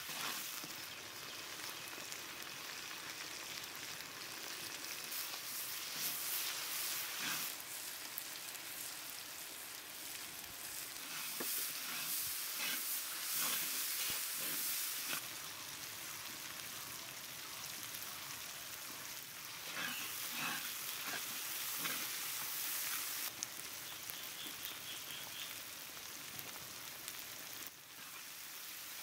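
Sliced onions, garlic paste and green chilies sizzling in hot oil in a large metal wok, with a metal spatula scraping and tapping against the pan as it is stirred.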